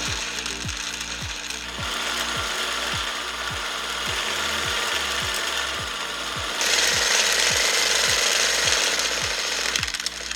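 Electric sewing machine running, its mechanism clattering steadily and getting louder about 2 s in and again about 6.5 s in. Background music with a steady beat runs underneath.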